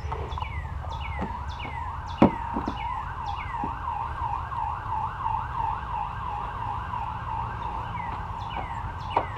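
A siren yelping, sweeping up in pitch over and over at about two to three rises a second. A single sharp knock stands out about two seconds in.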